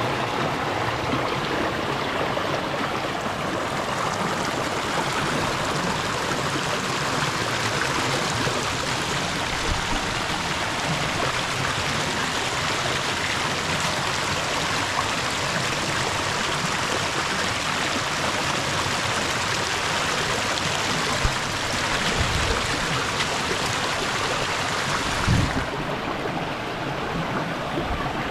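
Steady rush of running water from a stream or waterfall. There are a couple of low thumps near the end, and the hiss turns duller for the last few seconds.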